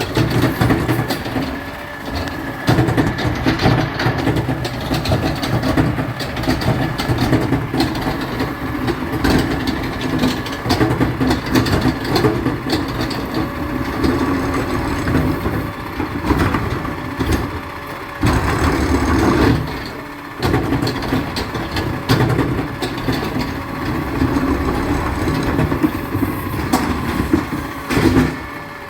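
Garbage truck's engine running, its level rising and falling, with a couple of short dips.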